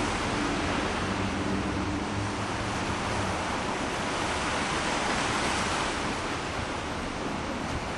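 Ocean surf washing steadily, with wind buffeting the microphone. A faint low steady hum sits under it and drops out about three seconds in.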